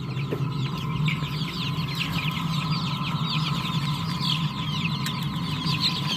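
Many young chicks in a brooder peeping together, a dense stream of short, overlapping, falling chirps, over a steady low hum.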